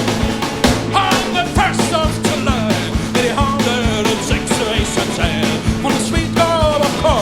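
Rock band playing an instrumental passage: drums keep a steady beat under a lead melody line with bending, sliding notes.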